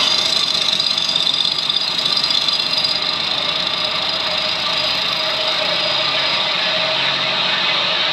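CNC router running steadily, a high whine over broad mechanical noise.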